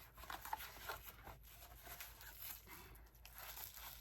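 Faint rustling and crinkling of packaging, handled in short scattered bursts as a package is opened.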